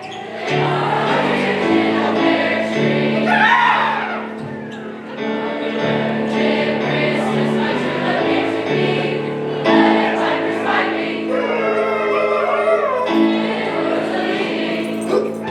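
A high school choir singing with sustained chordal accompaniment underneath; the low chords shift every second or two.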